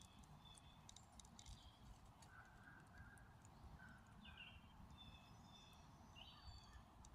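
Faint outdoor ambience: birds giving short whistled calls, several in a row through the middle, over a low steady rumble.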